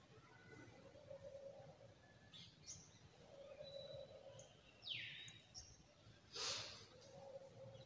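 Quiet room tone with faint bird chirps and whistles, one falling whistle about five seconds in, and a brief rush of noise about six and a half seconds in.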